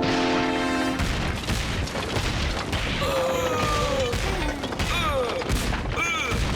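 Cartoon soundtrack: a held musical chord cuts off about a second in, giving way to a long rumbling crash with rapid knocks. From about halfway, gliding pitched music or cries sound over the rumbling.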